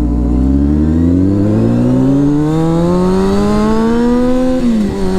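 Honda CBR600F4i inline-four sport-bike engine accelerating in one gear, its pitch rising steadily for about five seconds, then dropping sharply at an upshift near the end and holding steady.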